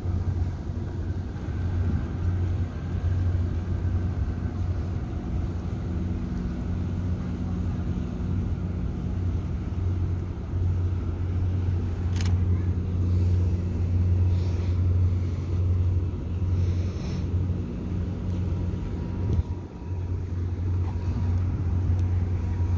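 Steady low engine drone, a constant hum with no rise or fall in pitch. One sharp click about halfway through.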